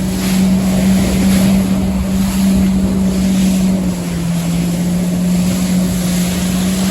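Personal watercraft (jet ski) engine running at a steady cruising speed, a constant drone that drops slightly in pitch about four seconds in and then climbs back. Wind buffets the microphone and water rushes past the hull.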